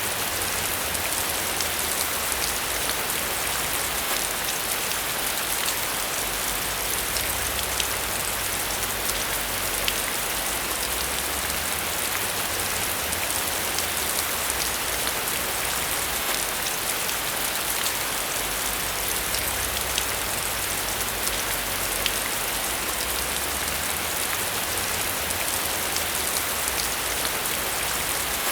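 Steady rain falling, an even hiss with countless individual drops ticking through it, over a low rumble that swells and eases.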